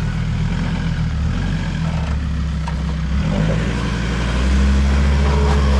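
Off-road 4WD engine running under load as the vehicle drives an obstacle, revs picking up and holding louder about four seconds in.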